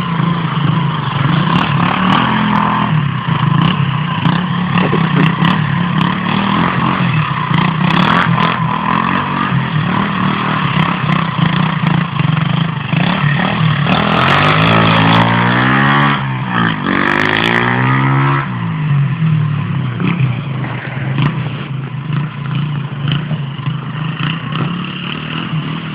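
150cc dirt bike engine running, revved up and back down a couple of times about midway before settling to a steady run again.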